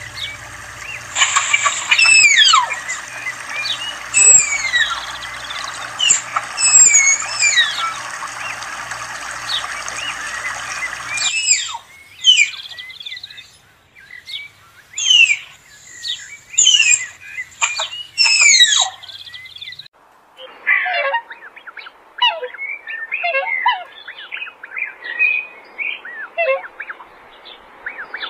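Bird calls: many short, high whistled notes, most of them sliding downward, in separate recordings joined one after another, the last one denser, quicker chirping.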